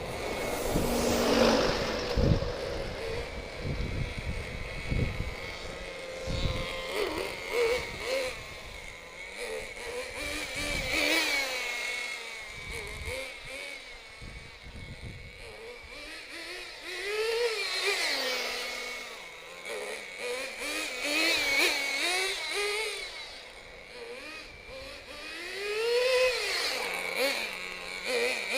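FTX Banzai's .18 nitro engine with an alloy exhaust running hard, its pitch rising and falling again and again as the car speeds up and backs off. The two-speed gearbox is not shifting, held by an over-tight grub screw.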